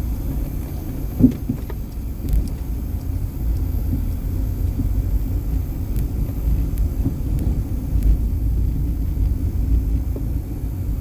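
Low, steady rumble inside a car's cabin while it drives over a rough, unpaved road, with a single sharp knock about a second in.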